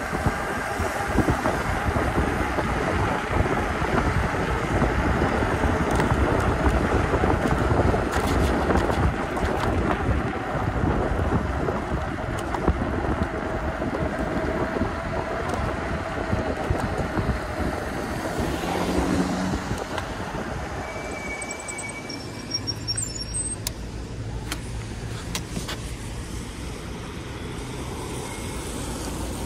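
Wind rushing over a chest-mounted microphone and tyre noise on a wet road while riding an e-bike, with car traffic around. The noise eases about two-thirds of the way through, leaving a low steady hum and a few clicks.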